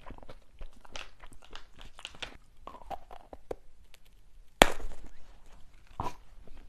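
Close-miked eating of crunchy snacks: small crunches and mouth clicks, with one loud sharp crack of a bite about four and a half seconds in and a smaller one about a second and a half later.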